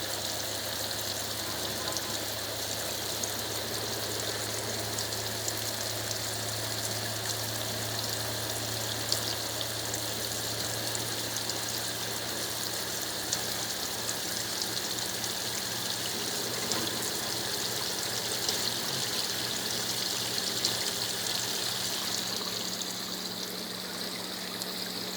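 Water running steadily into the drum of a Brastemp Ative 11 kg top-load washing machine as it fills for the rinse. The fill is slow because the supply tap is not fully open. A low machine hum runs underneath and changes pitch about halfway through.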